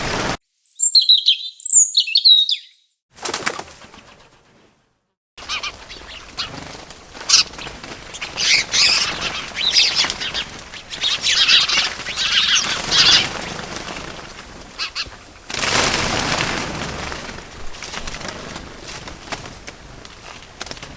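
Birds chirping and flapping their wings: a few sharp, high chirps near the start, then repeated bursts of flapping and chirping, with a longer rush of wingbeats about fifteen seconds in.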